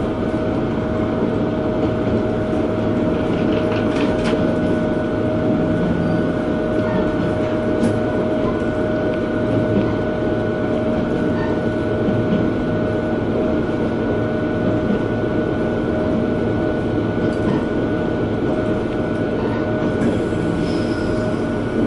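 Inside the cabin of a KiHa 120 diesel railcar running steadily: engine drone and wheel-on-rail noise with a steady whine over it.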